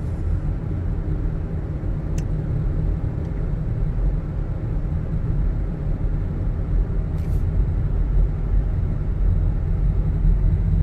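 Car driving, heard from inside the cabin: a steady low rumble of engine and tyres on the road, with a couple of brief clicks about two and seven seconds in.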